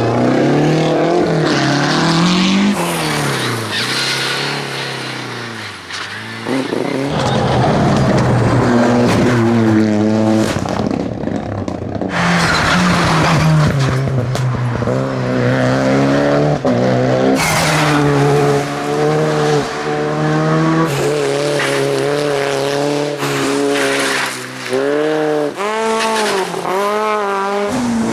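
Rally cars driven hard along a special stage, one after another. The engines rev up and drop back through gear changes in repeated rising and falling whines, with abrupt switches from one car to the next.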